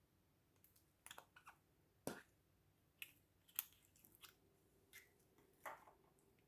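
Slime being handled: faint, scattered sticky clicks and crackles, about a dozen of them, the loudest about two seconds in.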